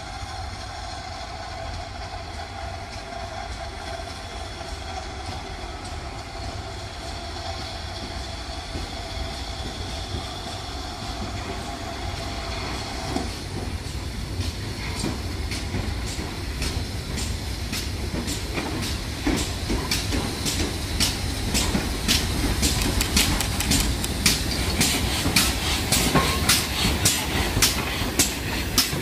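A train runs past on the rails. A steady mechanical whine stops abruptly about halfway through, and then the wheels clatter over the rail joints, the clicks growing louder and more frequent as the train comes closer.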